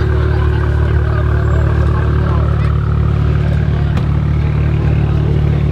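A car engine idling steadily: a low, even drone that neither rises nor falls.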